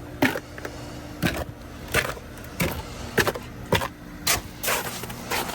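Footsteps on sleet- and ice-covered ground, a sharp step about every half to two-thirds of a second as someone walks.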